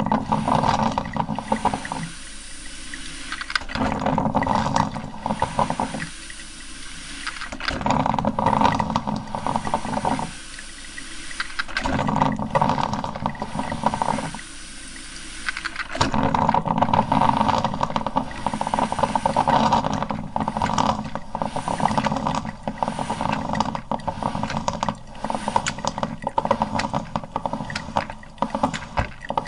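Coffee maker brewing, gurgling and spluttering in surges every few seconds. About halfway through it settles into a steady crackly bubbling.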